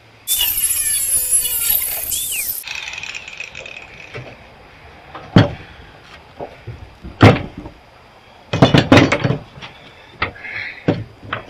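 A power tool cutting through metal for about two and a half seconds with a harsh, squealing whine that shifts in pitch, then winding down. Several sharp metal knocks follow later.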